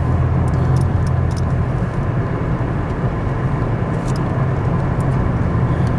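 Steady engine and road drone of a 2003 Pontiac Grand Am GT under way, heard from inside the cabin, with no grinding from the newly replaced front wheel hub.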